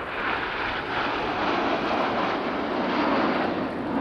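BAE Hawk T1 jet trainers of the Red Arrows flying past in formation, their Adour turbofans producing a steady, loud rush of jet noise.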